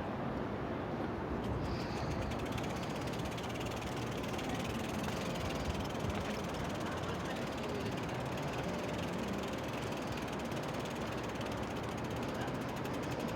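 Rapid, steady mechanical clicking, like a ratchet, over a steady rumble; the clicking starts about two seconds in.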